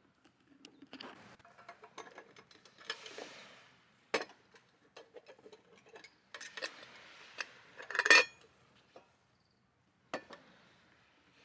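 Metal cookware and utensils being handled: scattered clinks and knocks with short rustling stretches between, and a loud rattle of clinks about eight seconds in.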